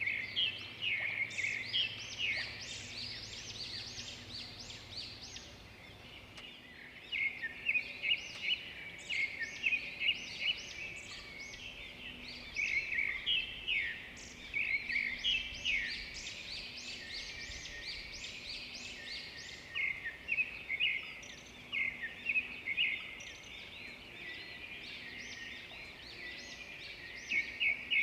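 Many birds chirping and singing at once, a dense chorus of short, quick, high-pitched calls and trills that overlap without pause. It thins out briefly about six seconds in.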